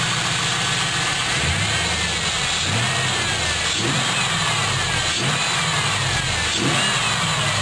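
The 5.7-litre LS1 V8 of a 1998 Pontiac Trans Am idling steadily. It runs without the fuel-pump buzz, its clogged fuel filter now replaced.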